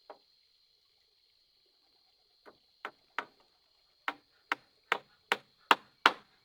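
Repeated sharp chopping strikes of a blade or tool into wood: a single strike, a pause, then a steady run of strikes about two and a half a second, getting louder toward the end.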